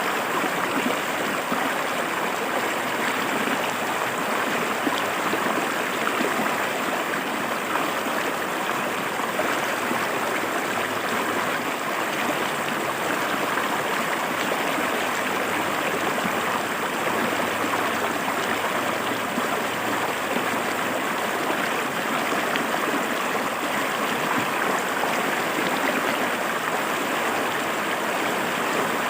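Clear river water flowing and splashing over rocks, a steady, even rushing with no breaks.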